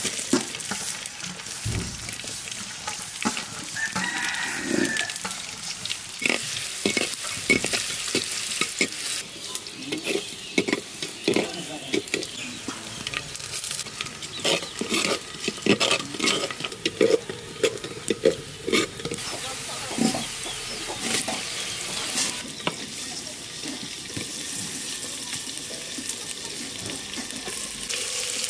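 Onion and chicken sizzling in hot oil in a clay pot, with a long metal ladle stirring and scraping, giving many short clinks and knocks against the pot through the middle stretch.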